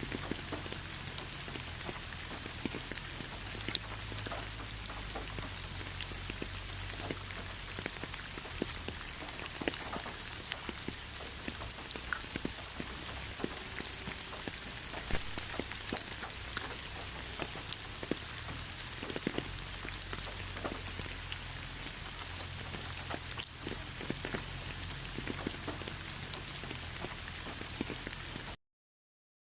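Steady rain: many small drop ticks over a constant hiss, cutting off suddenly near the end.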